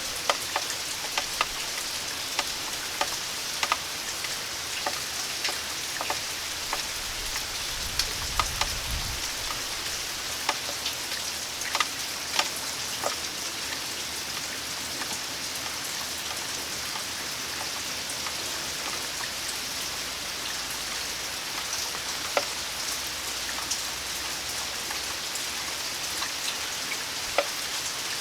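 Steady rain falling, with scattered louder drips striking a hard surface. A brief low rumble comes about eight seconds in.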